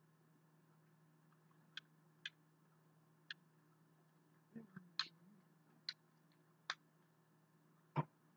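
Faint mouth sounds of chewing a chicken nugget: a soft bite about halfway through and about seven sharp, scattered clicks, the last one near the end the loudest.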